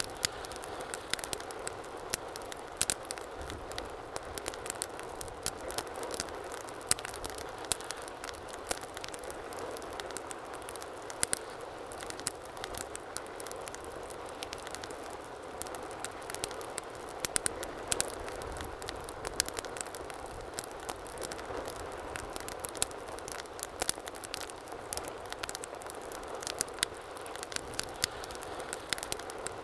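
Wood fire burning in a fireplace: a steady low hiss of flames with frequent sharp crackles and pops, several a second, some louder than the rest.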